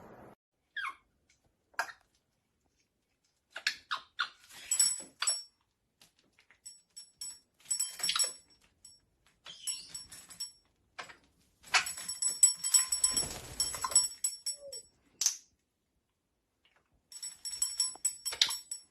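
Metallic jingling in repeated short bursts, with a few brief bird chirps between them.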